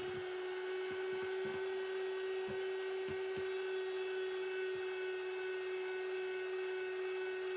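Electric mixer running steadily at constant speed, whipping meringue, with a steady motor hum and occasional soft low knocks of the beaters against the bowl.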